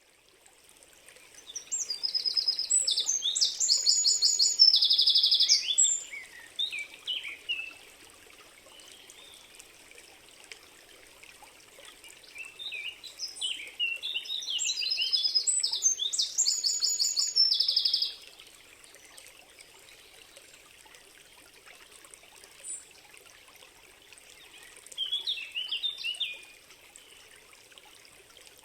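A songbird singing three phrases of fast trilled high notes mixed with falling notes; the last phrase is short. Between them, faint running water from a stream is heard steadily.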